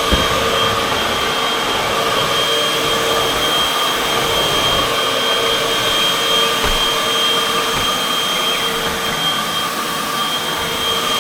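Upright vacuum cleaner, model UH70605, running steadily while vacuuming a floor, its motor giving a steady whine over a rushing airflow.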